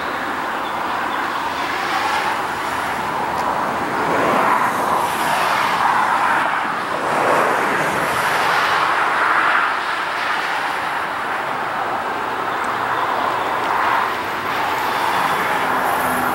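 Approaching diesel freight train: a steady, noisy rumble of the locomotives and wheels on the rails, swelling a little in the middle, with no horn.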